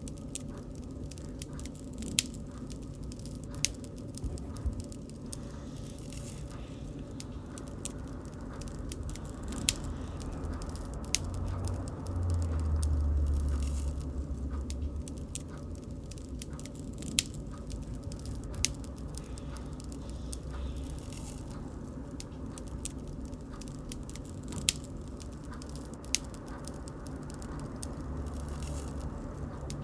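Bonfire burning: wood crackling with scattered sharp pops and snaps over a steady low rumble of the flames, which swells louder for a few seconds around the middle.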